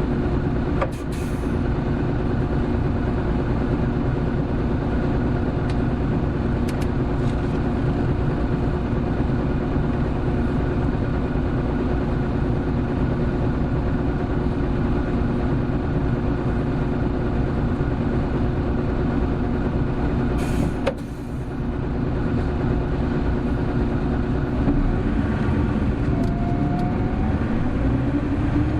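Hino Blue Ribbon City hybrid bus's diesel engine pulling at steady high revs while the bus is driven fast. The engine note dips briefly twice, about a second in and about twenty-one seconds in, and its pitch starts rising near the end.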